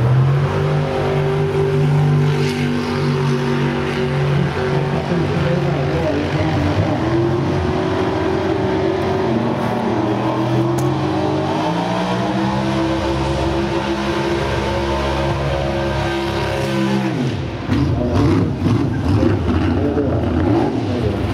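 Dragster engine idling, heard up close from on board; the revs climb gently through the middle, are held higher for a few seconds, then drop back about three-quarters of the way through.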